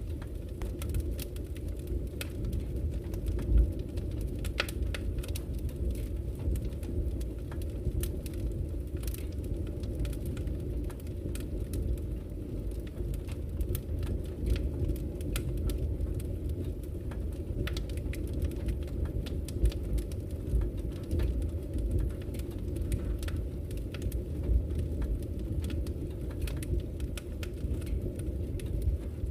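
Wood fire burning in a fireplace: a steady low rumble of flames with frequent sharp crackles and pops, one louder pop about three and a half seconds in.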